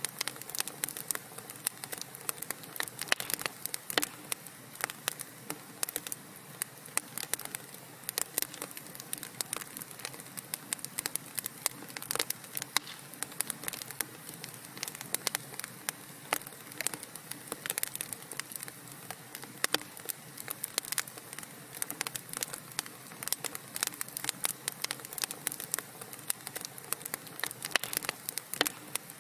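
Wood fire crackling: dense, irregular sharp pops and snaps over a soft steady hiss of burning logs.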